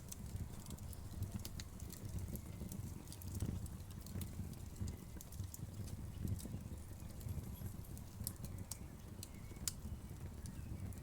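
Wood fire in a fireplace burning with a low steady rumble of flames and irregular small crackles and pops, a few sharper snaps among them.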